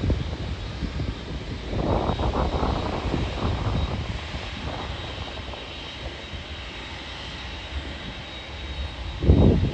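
Jet engines of a departing Boeing 747-8F freighter, the four GEnx-2B turbofans at high power. A deep rumble surges in gusts, with a steady high whine above it.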